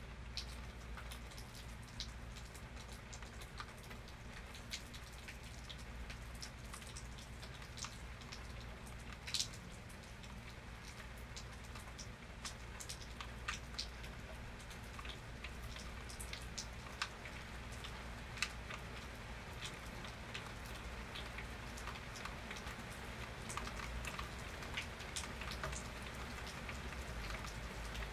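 Steady rain falling, with many scattered sharp drop ticks on a hard surface over an even hiss and a low rumble underneath.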